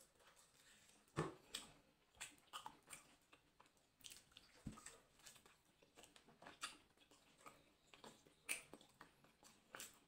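A person chewing and biting meat close to the microphone: irregular short clicks and smacks of the mouth, the loudest about a second in and another late on.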